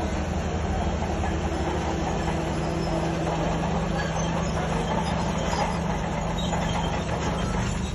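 Heavy diesel earthmoving machine running steadily under load, its low engine hum overlaid by a continuous metallic rattle and clatter.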